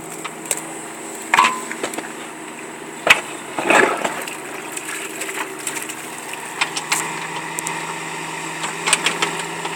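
Scattered sharp cracks and knocks, a longer rough scraping crunch about four seconds in, over the steady hum of an idling engine.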